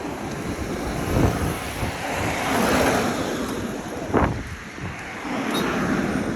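Street traffic noise: a motor vehicle passes, swelling to its loudest about two and a half to three seconds in, with a couple of sharp low thumps.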